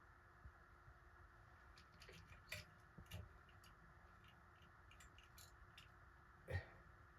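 Faint, scattered clicks and taps of small parts and tools being handled during work on a ceiling fan's pull chain switch and wiring, with one louder knock about six and a half seconds in, over quiet room tone.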